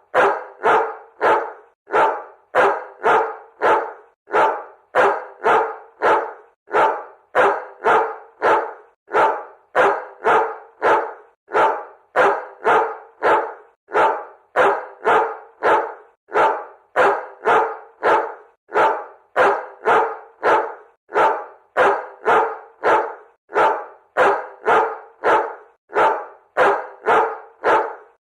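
A dog barking repeatedly in an even, unbroken run of short barks, about two a second.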